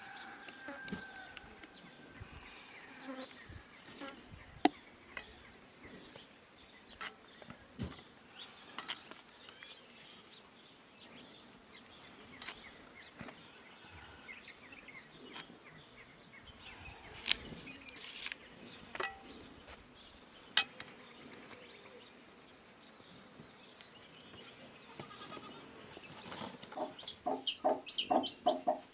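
Domestic hen clucking, a quick run of short calls building up near the end, with scattered sharp knocks and clicks earlier on.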